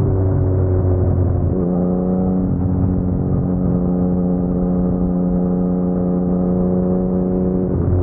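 Yamaha MT-09's crossplane three-cylinder engine running at steady low revs through an Akrapovic carbon full-system exhaust, a steady pitched exhaust note. About a second and a half in the note steps up to a higher pitch and holds there, dropping back near the end.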